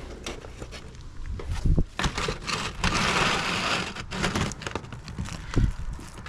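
Asphalt shingle being trimmed and worked into place by hand: a run of knocks and clicks, with a longer gritty scrape about three seconds in.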